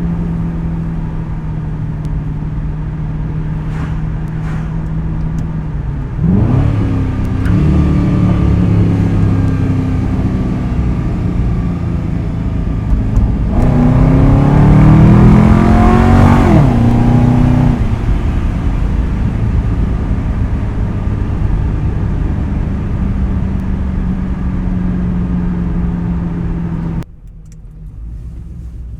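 Ford Crown Victoria Police Interceptor's 4.6-litre V8 through a custom quad-tip exhaust, running steadily and then accelerating twice: a moderate pull about six seconds in and a harder one in the middle, its pitch rising and then dropping back before it settles to a steady cruise. The sound drops away suddenly near the end.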